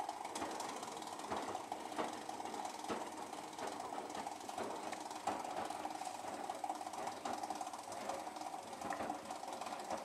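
Hotpoint WMD940 washing machine making an odd mechanical noise: a steady hum with irregular clicks and knocks over it, stopping suddenly near the end. The owner links it to a fault that soon left the machine unable to drain.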